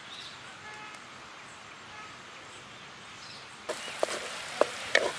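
Faint birdsong over quiet outdoor air, then, about two-thirds of the way in, the loud hiss of scrambled eggs and masala frying in a clay pot over a wood fire, with sharp crackles and pops.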